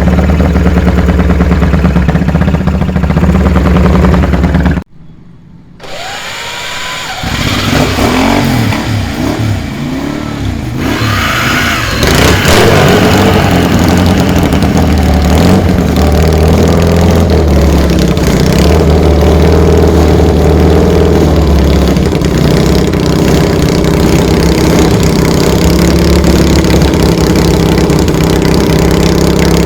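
Classic air-cooled racing motorcycle engine running loud. It drops away abruptly about five seconds in, comes back with a few throttle blips, and from about twelve seconds in runs loud and steady.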